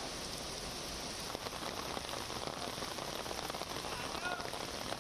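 Heavy rain falling steadily, a smooth hiss at first, then from about a second in a denser patter of drops splashing on a wet road.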